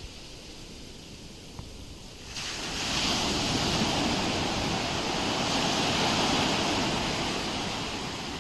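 Ocean waves on a shore: a quieter wash of surf, then about two seconds in a wave breaks and rushes in loudly for several seconds before easing off.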